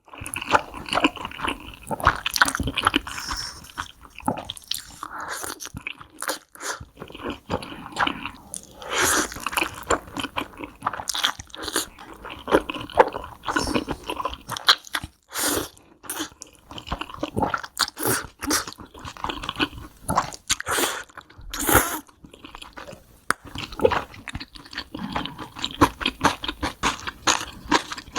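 Close-miked eating sounds of a person biting and chewing mouthfuls of black bean noodles, a steady run of irregular short, sharp mouth noises.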